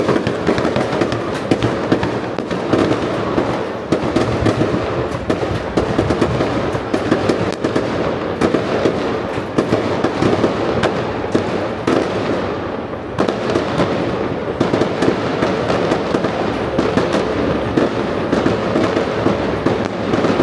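Aerial fireworks display: a dense, continuous crackling and popping of many bursting shells, with sharper bangs scattered throughout. It starts abruptly.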